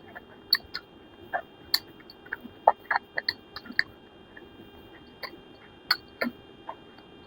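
Close-miked eating sounds: a person chewing a meal of rice and curry, with irregular wet mouth smacks and clicks, about two a second.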